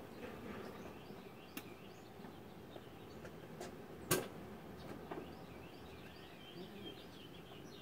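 Faint background noise with small birds chirping in short high notes, and one sharp click a little past halfway, the loudest sound, among a few fainter clicks.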